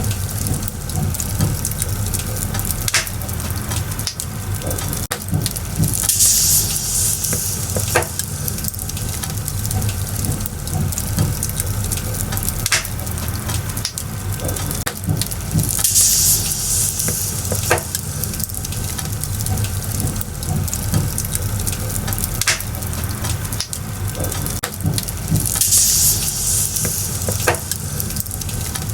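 Wood fire burning, with a steady crackle and frequent sharp pops from the firewood. A louder hiss swells up three times, about ten seconds apart.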